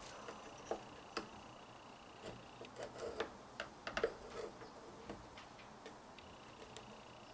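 Irregular small clicks and taps from handling and working on a vacuum cleaner's parts, with a dense cluster in the middle.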